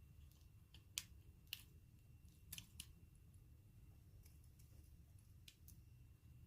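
Small hand tools clicking and tapping during phone board repair: a few short sharp clicks, four of them louder in the first three seconds and fainter ones later. Under them runs a low hum and a faint steady high whine.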